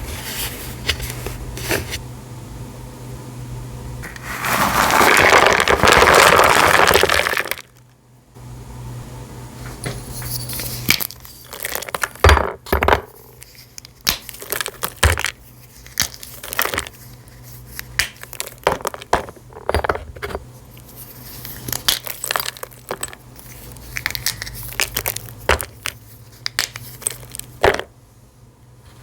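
An assortment of dry, brittle pieces being broken and crushed: a long crumbling crunch about four seconds in, then many sharp separate snaps and cracks.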